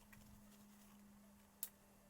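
Near silence with a faint steady hum, broken by one sharp click about one and a half seconds in.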